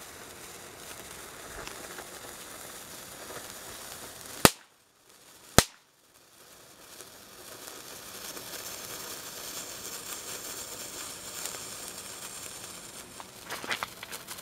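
Two loud firecracker bangs about a second apart, then a cluster of smaller crackling pops near the end.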